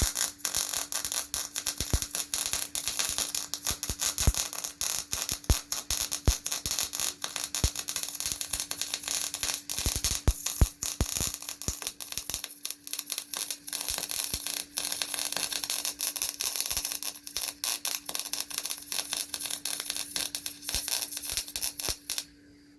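Welding arc crackling continuously, a dense run of sharp irregular snaps and hiss over a steady low hum, cutting off suddenly near the end.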